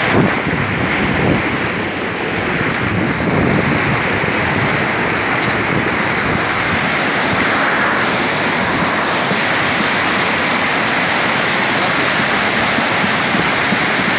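Rushing water of a mountain stream, a steady, loud, even rush. In the first few seconds there is some low buffeting of wind on the microphone.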